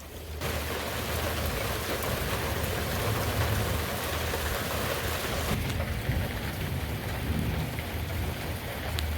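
Heavy rain pouring down in a dense, steady hiss that comes in abruptly about half a second in and softens a little about halfway, over a low rumble of thunder.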